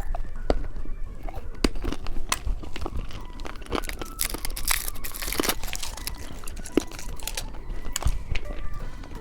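Plastic candy wrapper crinkling and tearing open, with the thickest crinkling about four to five and a half seconds in, among sharp clicks and crunches of candy being handled and bitten.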